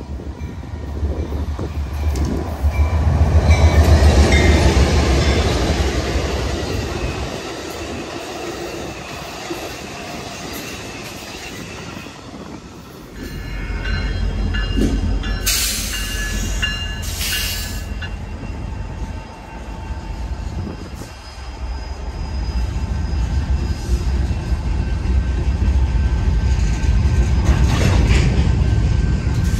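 Freight train passing close by: a diesel locomotive followed by a long string of covered hopper cars, with a heavy low rumble and clatter of wheels over the rails.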